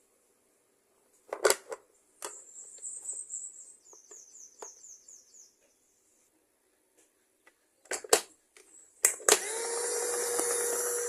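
Plastic clicks and rattling as the mini robot vacuum cleaner is handled, then, about nine seconds in, its small motor switches on and runs steadily with a held tone over a hiss.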